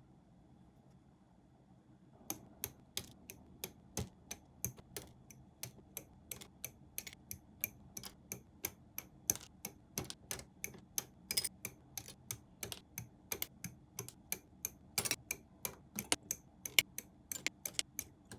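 A long run of small, sharp clicks, about three a second, starting about two seconds in, like a hand tool working on small plastic parts.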